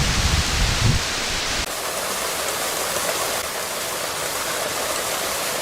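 Steady rushing noise of water, with a deep rumble under it for about the first second and a half that stops abruptly, leaving a lighter hiss.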